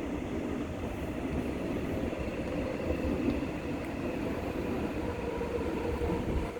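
New Woojin-built Busan Metro Line 1 train running between stations, heard inside the car: a steady rumble of wheels on rail with a faint even hum.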